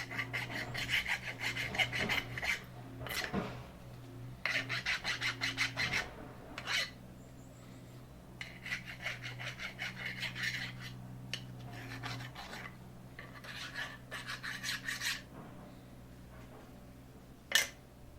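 Hand file rasping on a metal workpiece in four short runs of quick back-and-forth strokes. A steady machine hum underneath stops about twelve seconds in, and a single sharp knock comes near the end.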